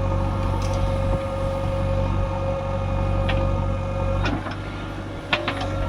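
Heavy diesel engine running steadily, easing off slightly about four seconds in, with a few sharp knocks near the end.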